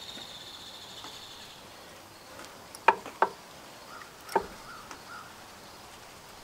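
Small metal carburetor parts clicking as a return spring and its linkage are worked into place by hand: four short sharp clicks, two close together about three seconds in, one more a second later and one near the end. A faint, steady, high-pitched insect buzz runs through the first half.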